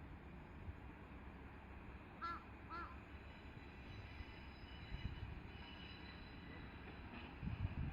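A crow caws twice, about two seconds in, over a low background rumble. Near the end, the low rumble and thumps of an approaching Kashima Rinkai Railway diesel train begin to build.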